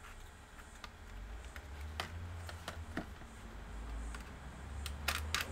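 Scattered light clicks and taps of small laptop parts being handled, with a cluster of quick clicks near the end, over a low handling rumble.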